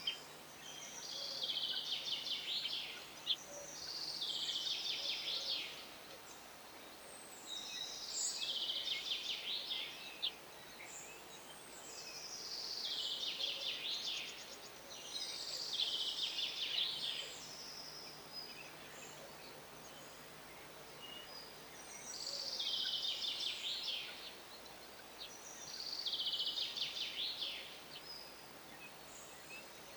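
A songbird singing, repeating short phrases of rapid high notes about two seconds long, with pauses of a second or more between them.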